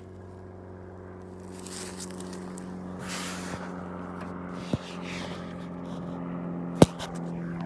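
An airplane passing overhead, a steady multi-pitched hum that grows slowly louder. There are short rustles, and a single sharp click near the end is the loudest sound.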